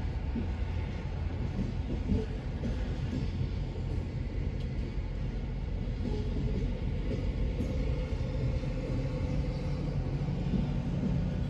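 Loaded coal hopper cars of a slow-moving freight train rolling past, a steady low rumble of steel wheels on rail.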